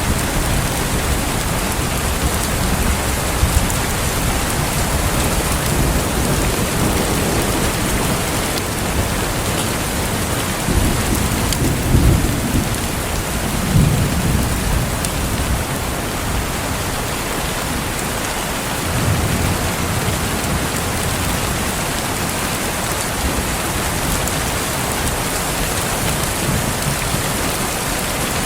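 Steady rain, with low rolling thunder rumbling through the middle, loudest about halfway through.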